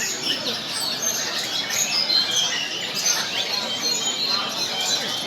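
Many caged songbirds singing at once in a dense, overlapping chorus of quick chirps, trills and whistles.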